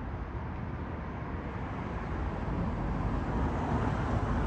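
Steady road traffic noise, growing slightly louder toward the end as a vehicle draws nearer.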